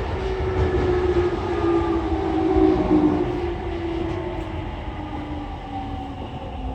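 JR East E231-800 series electric train heard from inside the car while braking: traction motor and inverter tones slowly falling in pitch over the rumble of wheels on rail, the sound gradually dying down as the train slows into the station.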